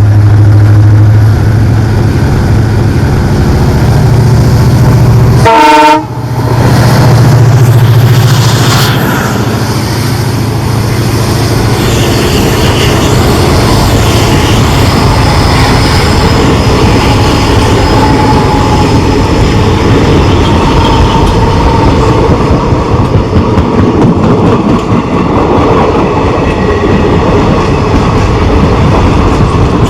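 EMD WDP 4B diesel-electric locomotive, with its two-stroke 16-cylinder EMD 710 engine, running hard as it accelerates a passenger train away from a station, with a short horn sound about six seconds in. After that the coaches roll past with wheel and rail clatter that pulses in the second half.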